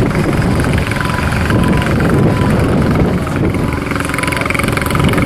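Caterpillar 140G motor grader's diesel engine running steadily.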